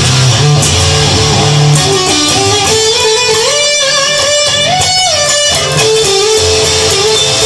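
Instrumental break of a song, with no singing: an electric guitar plays a melodic lead line over the backing. The line climbs step by step about halfway through, then comes back down.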